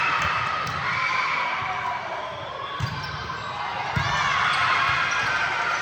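Indoor volleyball game play: two sharp thumps of the ball being hit or landing, about a second apart in the second half, over a steady background of voices in the hall.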